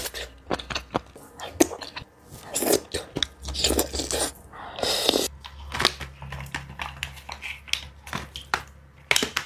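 Close-miked eating sounds: irregular biting and chewing with wet mouth clicks and smacks.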